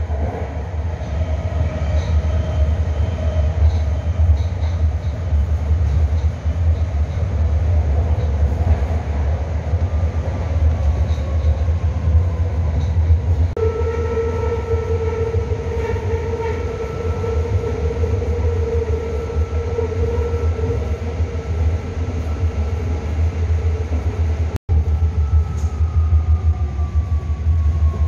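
A BART train running, heard from inside the passenger car: a heavy steady rumble with a whine from the motors, which slides down in pitch twice.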